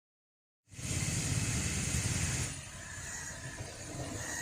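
Motorcycle on the move: engine rumble mixed with wind and road noise, starting abruptly under a second in and easing off a little about halfway through.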